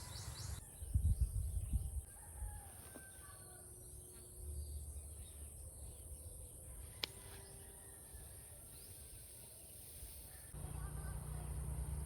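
A rooster crowing faintly in the distance, twice, over a steady high hiss. A loud low rumble comes about a second in, and a single sharp click about seven seconds in.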